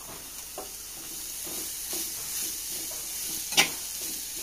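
Chopped green beans dropping into hot coconut oil in an earthenware pot and sizzling, the hiss growing louder as they go in, while a metal spoon scrapes and stirs them against the clay. A single sharp knock near the end.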